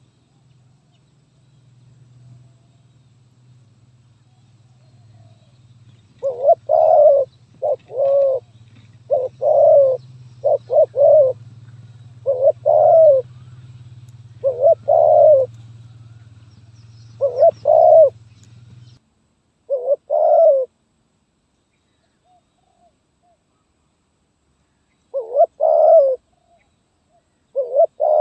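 Spotted dove (terkukur) cooing in short, repeated broken phrases, the stuttering 'gagap' coo, starting about six seconds in, pausing for a few seconds, then resuming near the end. A low steady hum runs underneath and stops suddenly about two-thirds of the way through.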